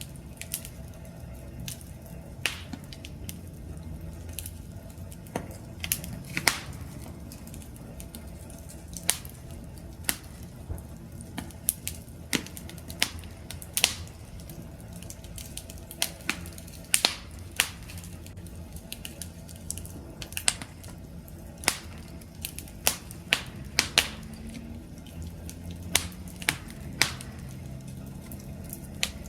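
Campfire crackling: irregular sharp pops and snaps, several a second at times, over a steady low rumble of the flames.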